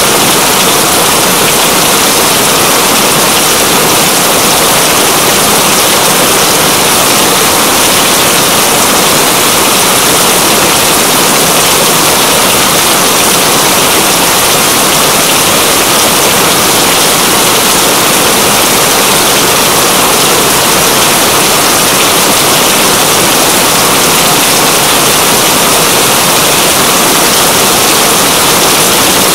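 Steady, dense rain hiss with no change in level.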